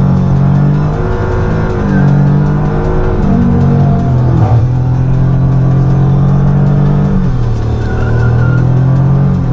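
Toyota GR Yaris's turbocharged 1.6-litre three-cylinder engine, heard from inside the cabin, revving up and down as the car slides on a wet skidpan, with music laid over it.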